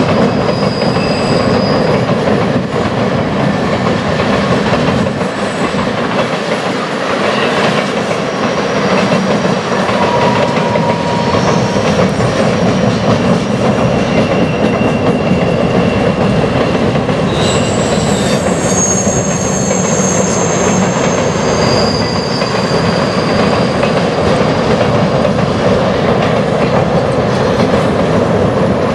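Freight train cars rolling steadily across a steel truss bridge: a constant rumble and clatter of wheels over the rail. Thin, high-pitched wheel squeals come and go, most of them past the middle.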